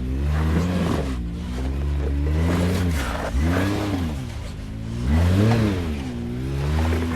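Off-road vehicle's engine revving up and falling back about four times as it is worked over rocks while rock crawling.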